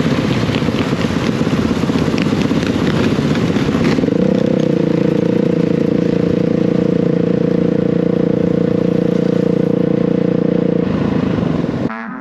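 Dirt bike engine running under way, with rushing wind noise over it at first; about four seconds in the engine settles into a steady, even note held for several seconds, and the sound cuts off just before the end.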